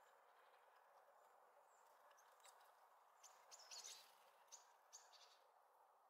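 Small birds at a garden feeder giving a few short, high chirps, bunched together about three to five seconds in, over a faint steady background hush.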